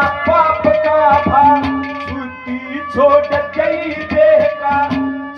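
Haryanvi ragni accompaniment: an instrumental passage with a melody instrument playing a gliding line over steady hand-drum strokes.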